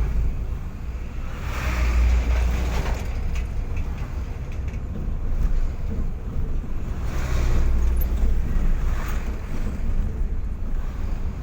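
Road noise of a moving vehicle: a steady low rumble of engine and tyres, with swells of rushing noise every few seconds.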